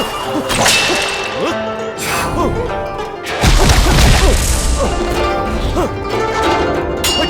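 Film soundtrack of comic fight action: music with whooshes, whacks and crashing hits over it. A heavy, deep boom lands about three and a half seconds in and carries on as a low rumble.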